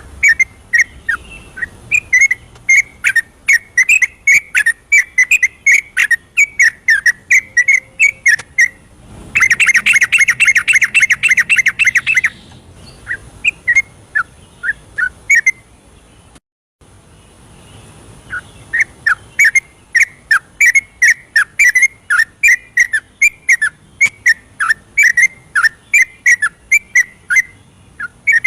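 Yellow-vented bulbul (trucukan) song: short, sharp notes repeated about three times a second, broken about nine seconds in by a three-second burst of rapid chattering, with a brief drop-out just past the middle.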